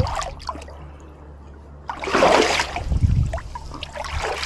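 Lake water splashing as a person moves about in it, with a louder splash about two seconds in and a low thump just after.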